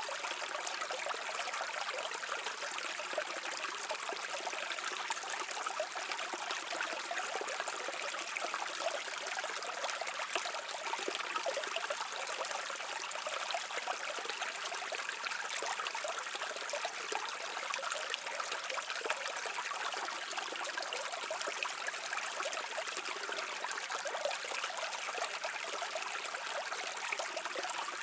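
A stream of water flowing and babbling steadily over stones, an even rushing and trickling with no pauses.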